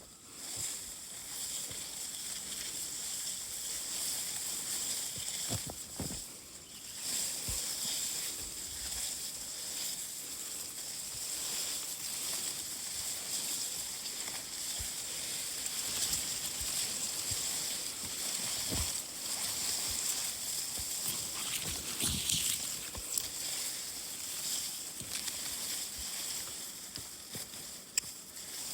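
Steady high-pitched outdoor hiss, with a few soft knocks and rustles.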